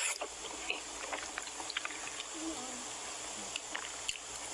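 Close-miked mukbang eating sounds: wet chewing and smacking of soft, fatty meat, with many small scattered clicks and pops.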